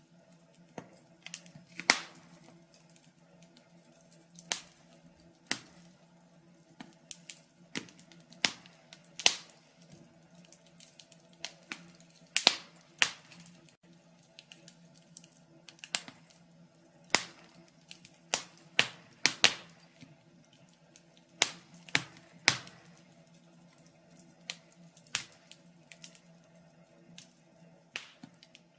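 Wood log fire crackling, with irregular sharp pops and snaps, sometimes in quick clusters of two or three, over a faint steady low hum.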